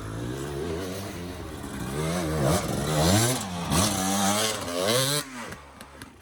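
Dirt bike engine revving hard in repeated throttle bursts, its pitch rising and falling several times as the bike works up a rock, then dropping away suddenly a little after five seconds in.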